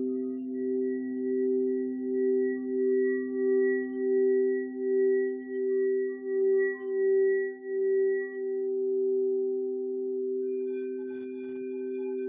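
Singing bowls ringing with two steady, sustained tones; the higher tone wavers in a slow pulse about twice a second for the first eight seconds or so, then holds steady. Near the end, higher ringing tones come in with a few faint ticks.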